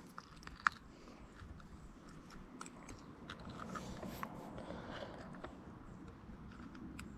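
Faint scattered clicks and small knocks of hands handling a freshly caught bass and fishing gear in a kayak.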